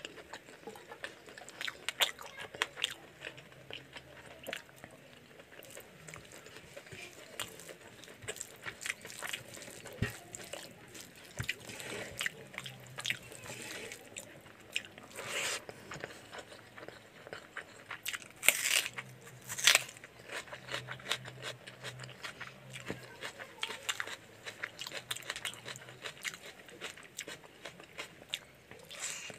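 Close-miked chewing and wet mouth sounds of a man eating chicken curry and rice by hand: steady small clicks, smacks and crunches, with a few louder bites in the middle.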